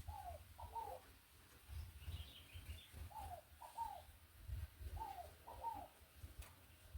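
A dove cooing: three pairs of short falling notes, about two and a half seconds apart. A smaller bird chirps briefly between the first two pairs.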